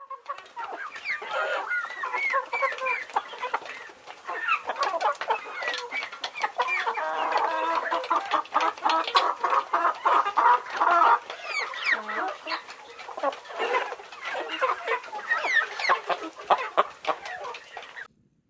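A flock of chickens clucking and squawking, many birds calling over one another, with frequent short clicks among the calls. The sound cuts off suddenly just before the end.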